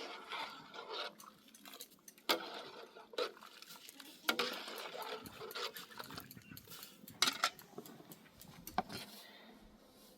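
Dishes and utensils clattering, irregular clinks and knocks with scraping between them, the sharpest knocks about two, four, seven and nine seconds in.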